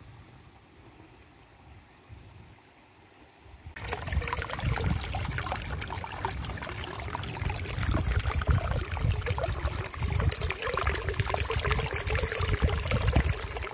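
Flowing stream water splashing and trickling over rocks, starting suddenly about four seconds in after a faint low rumble, then continuing as a loud, busy patter of splashes.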